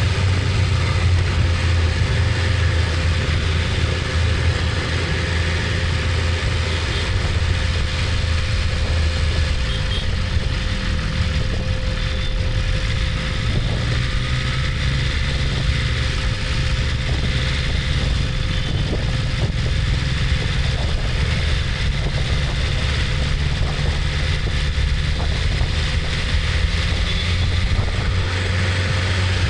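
BMW S1000RR's inline-four engine running steadily at low revs, with no revving up or down.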